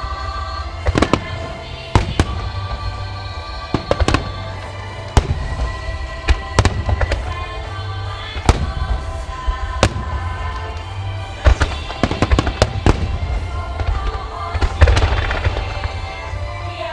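Starmine aerial firework shells bursting one after another at irregular intervals, with sharp reports and a low rumble. Music plays steadily underneath.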